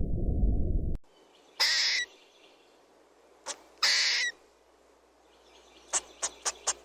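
Owl calling: two high, raspy calls about two seconds apart, each lasting about half a second, then a quick run of about five short sharp calls near the end. In the first second, a low rumble from another animal cuts off abruptly.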